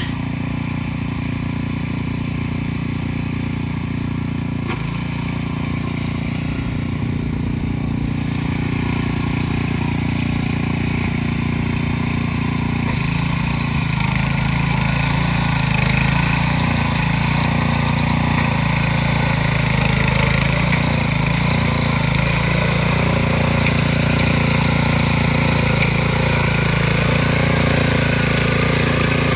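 Harbor Freight Predator small gasoline engine on a Troy-Bilt Pony rototiller running steadily. About 13 seconds in it speeds up and runs a little louder for the rest of the time.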